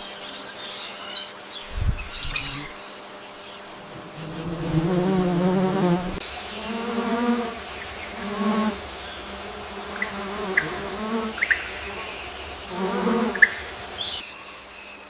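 A flying insect buzzing close by in several passes, the longest lasting about a second and a half, with short high bird chirps in the first couple of seconds and a few more scattered later.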